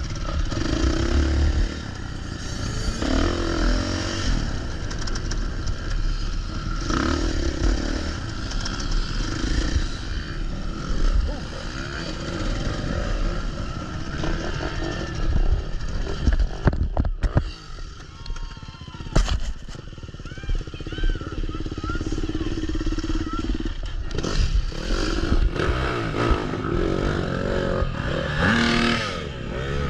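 Dirt bike engine running and revving, with a few sharp knocks partway through.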